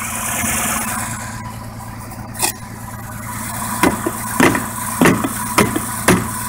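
Ford 300 inline-six of a 1985 F-150 idling steadily, with one sharp knock about two and a half seconds in and then a run of sharp knocks, roughly two a second, from about four seconds in: a stuck hood hinge being hit to free it.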